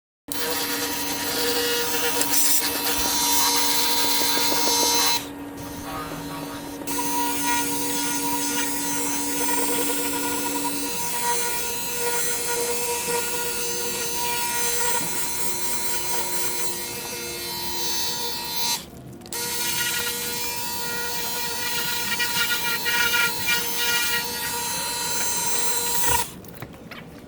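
Ryobi cordless pressure washer running, its electric pump whining steadily under the hiss of the water jet on the car. The trigger is let go briefly about five seconds in and again about nineteen seconds in, and the spraying stops a second before the end.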